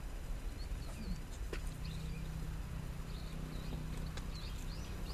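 Small birds chirping now and then over a steady low drone that comes in about a second in and holds.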